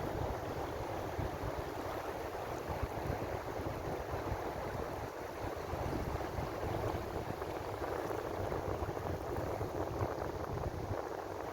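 Ocean waves washing on the shore: a steady rush of surf with a low rumble underneath.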